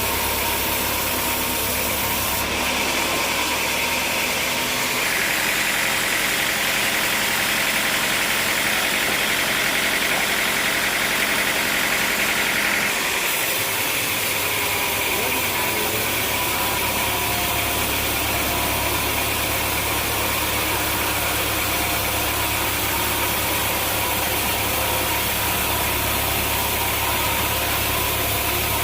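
Sawmill machinery running steadily. A higher, harsher noise joins in about five seconds in and stops about eight seconds later.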